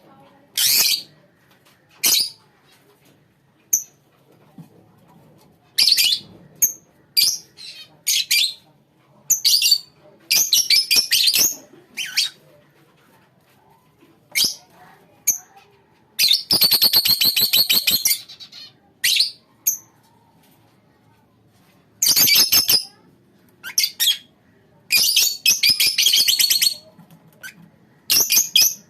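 A colony of lovebirds calling: shrill chirps and squawks in short bursts separated by pauses, with two longer runs of rapid chattering, about 16 seconds in and again about 25 seconds in.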